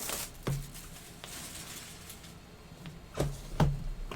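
Plastic shrink wrap being peeled and crinkled off a sealed trading-card hobby box, a short burst of crackling at first and softer rustling after, with a couple of sharp taps of the cardboard box being handled a little after three seconds in.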